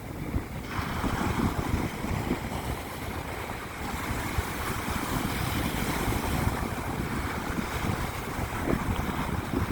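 Ocean surf washing onto a sandy beach in a continuous rush, with wind buffeting the microphone in low, uneven gusts.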